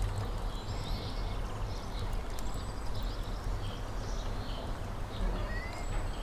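Outdoor ambience: scattered short bird chirps and whistles over a steady low rumble.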